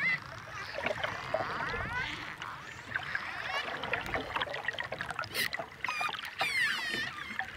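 Many overlapping animal calls: squeals and whistles sweeping up and down in pitch, with a few sharp clicks.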